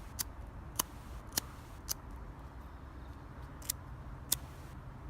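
Fire-starting sparker struck repeatedly to throw sparks onto char cloth: six short, sharp scrapes, four in quick succession, then a pause, then two more.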